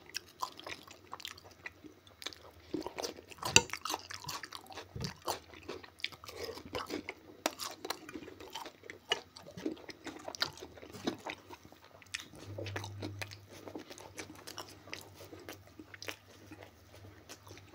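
Close-miked chewing and biting, with irregular crunches and clicks, as a man eats Korean-style pig ears and fried potatoes, then bites into a slice of pizza near the end.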